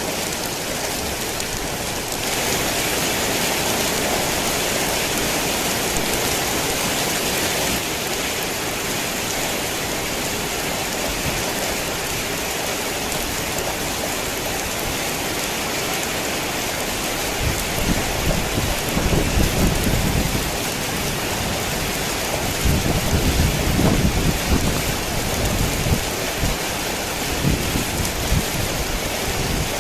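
Heavy rain falling steadily, briefly heavier for a few seconds near the start. Two low rumbles of thunder come in the second half.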